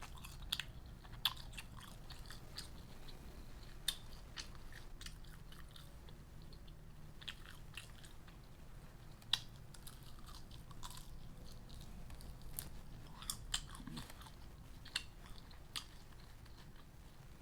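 A person eating close to the microphone: irregular chewing and biting with scattered short, crisp crunches and wet mouth clicks, over a faint low hum.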